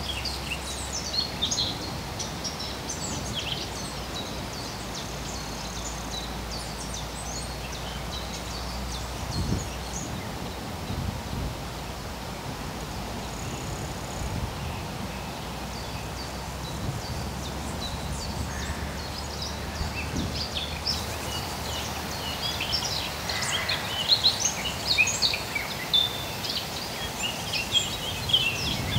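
Small birds singing in many short, high chirps, busiest over the first few seconds and again through the last third, over a steady low rumble.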